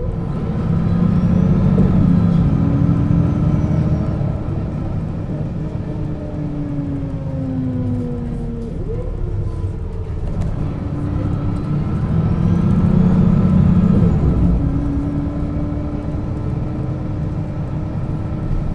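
A 1996 Setra S 315 UL bus with a ZF gearbox driving. Its engine swells twice, about two seconds in and again near thirteen seconds. Whining drivetrain tones slowly fall in pitch and jump abruptly about nine seconds in.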